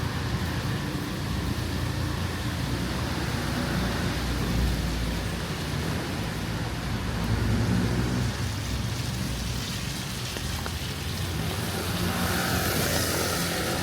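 Rainy city street ambience: motor vehicle engines running close by under a steady hiss of rain, with a louder hiss near the end.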